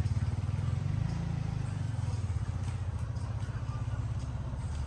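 An engine running steadily with a low, rapid throb.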